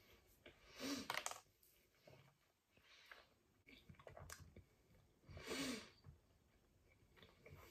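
Quiet mouth sounds of chewing a mouthful of pizza, with a few soft clicks and two louder short noises, about a second in and again about five and a half seconds in.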